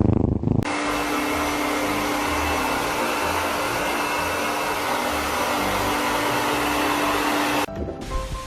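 Steady rush of air from a small electric blower motor, with a steady hum, cutting off suddenly near the end. A loud low rumble comes just before it starts.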